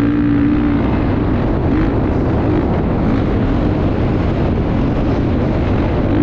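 Motocross dirt bike engine running under load, its pitch wavering up and down, with wind noise on the microphone.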